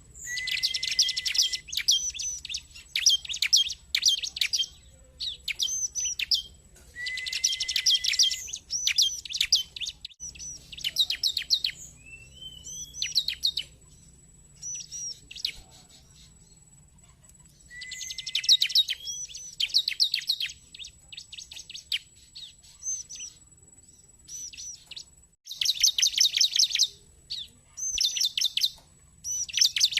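Bar-winged prinia (ciblek) calling: bursts of rapid, high trills and repeated chirping phrases, separated by short pauses, with one rising whistle near the middle.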